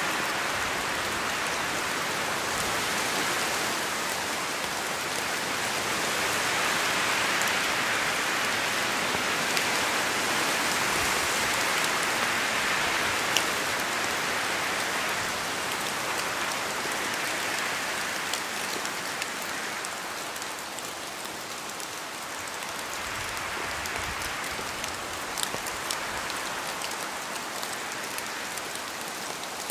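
Steady rainfall, an even hiss of rain on surfaces with scattered drop ticks, swelling a little and then easing somewhat in the second half.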